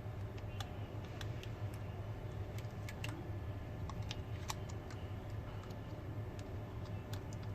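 Irregular small clicks and taps of a precision screwdriver and small parts as a smartphone is screwed back together, over a steady low hum.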